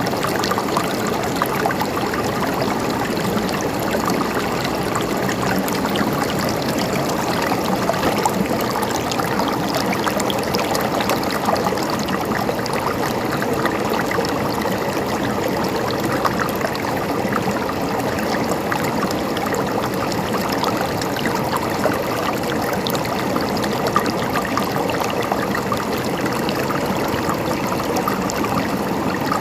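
River water flowing steadily over rocks, a continuous babbling and gurgling rush with no breaks.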